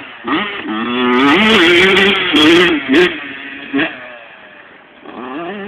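Motocross bike engine revving hard as it passes close, its pitch rising and dropping with throttle and gear changes; loudest between about one and three seconds in, then fading, with another bike's engine rising near the end.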